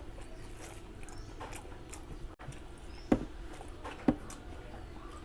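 Close-up eating sounds: wet chewing and lip smacks, with two sharper smacks about three and four seconds in.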